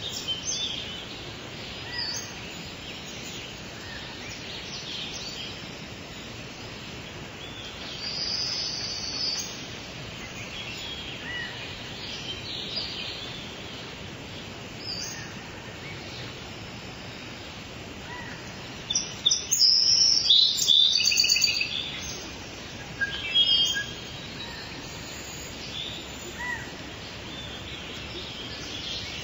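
Wild songbirds chirping and calling on and off over a steady outdoor hiss, with a louder run of quick repeated calls about two-thirds of the way through.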